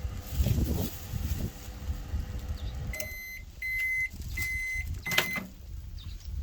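BBK 20MWS-721T microwave oven running with a steady hum that stops about halfway in, then four evenly spaced high beeps signalling the end of the cycle, with a click during the last beep.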